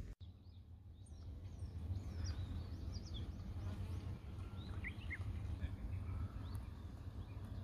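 Small birds chirping, many short high notes that mostly fall in pitch, scattered throughout, over a steady low rumble.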